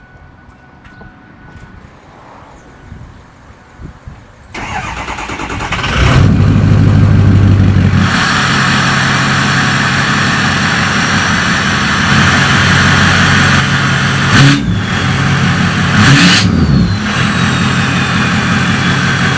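Ford 6.0 Powerstroke V8 turbo-diesel cranked over about four and a half seconds in, catching about a second and a half later through a straight-pipe axle-dump exhaust. It runs loud at a fast idle for a couple of seconds, settles to a steady idle, and is blipped twice near the end.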